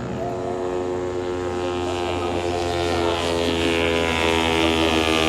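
Moto3 racing motorcycle engines, 250 cc single-cylinder four-strokes, running hard at high revs with a steady pitch, growing a little louder towards the end.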